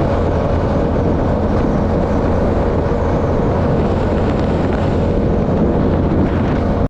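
Yamaha R7's parallel-twin engine through a Yoshimura AT2 exhaust, ridden at a steady pace, with heavy wind noise on the microphone.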